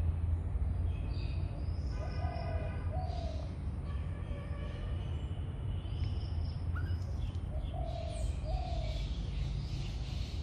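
Birds calling: scattered high chirps and whistles, and a two-note call that comes twice, about two seconds in and again near the end, over a steady low rumble.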